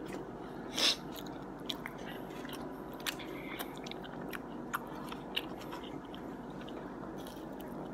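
A person chewing food close to the microphone: soft wet mouth clicks and smacks over a steady low background hum, with a brief louder crunch about a second in.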